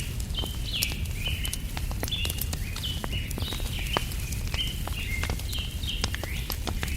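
Small birds chirping in short, quickly repeated notes over a crackling wood fire with frequent sharp pops, and a steady low rumble underneath.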